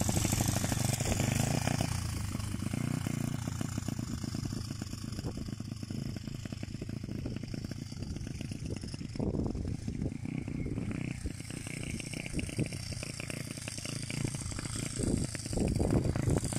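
Single-cylinder engine of a 125 cc pit bike running while it is ridden around, held in one gear the whole way because the rider never shifts up. It fades about two seconds in as the bike moves off and grows louder again near the end as it comes back.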